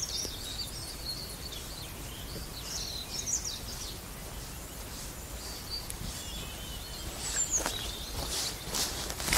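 Small songbirds chirping and singing over a steady low outdoor background. A few footsteps on the ground come near the end.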